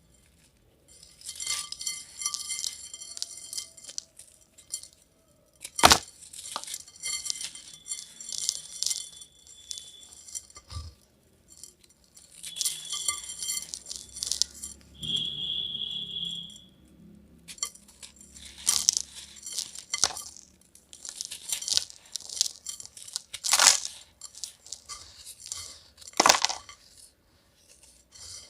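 Crunchy yellow grainy material crunching and jingling in a clay pot, with crisp ringing clinks in repeated bursts and a few sharp louder clicks.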